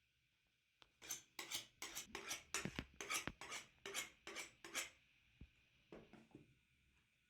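A kitchen utensil scraping and clinking against a dish in quick repeated strokes, about three a second, from about a second in until about five seconds, then a few fainter strokes.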